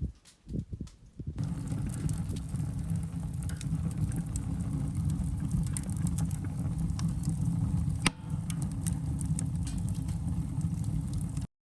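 Wood fire burning hard in a cyclone rocket stove: a steady low rush of draft-driven flame with crackling and snapping wood, and one sharp crack about eight seconds in. It starts about a second and a half in after a few scattered clicks and cuts off suddenly near the end.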